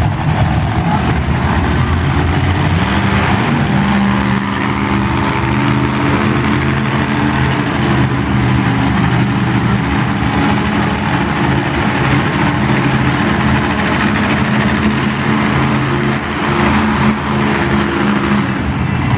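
Monster truck engine running at a steady low idle, its pitch shifting a little now and then, over a haze of arena noise.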